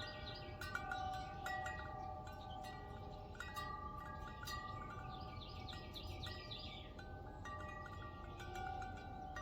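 Wind chimes ringing in a breeze: notes struck irregularly, each ringing on and overlapping the next, with high chirps coming in several short bouts.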